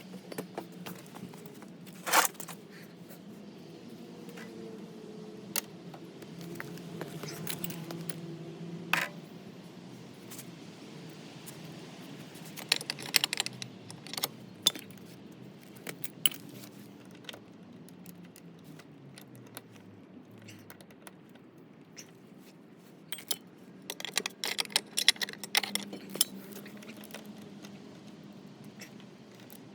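Small metal parts or tools clinking and jingling in scattered bursts, with a sharp click about two seconds in and a busy cluster of clinks near the end, over a low steady hum that slowly drops in pitch midway.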